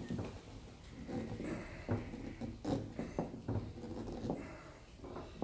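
Irregular wooden knocks and scraping as a wooden dowel rod is worked into a drilled hole in a teak block.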